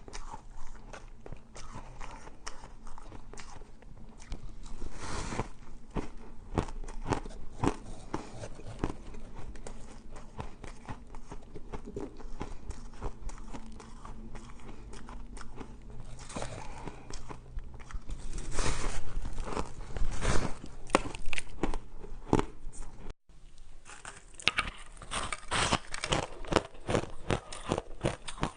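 Flavoured shaved ice being bitten and crunched close to the microphone: a steady stream of crisp crunches and chewing, loudest in the second half, with a brief break about two-thirds of the way through.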